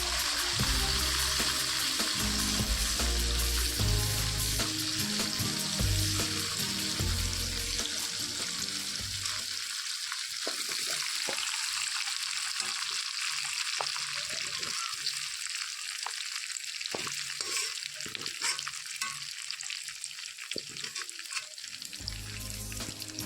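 Chicken frying in a pan with a steady sizzle, with the clicks and scrapes of a spatula stirring it. Background music plays under it for about the first ten seconds, stops, and comes back near the end.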